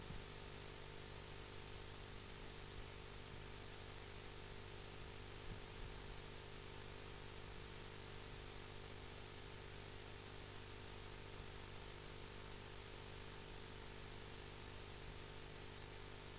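Steady faint hiss with a low electrical hum, with a couple of soft knocks about five and a half seconds in; no distinct calls are heard.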